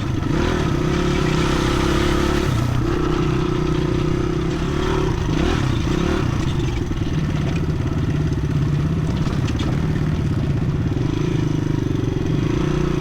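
Dirt bike engine running as it is ridden, its pitch shifting a little as the throttle changes.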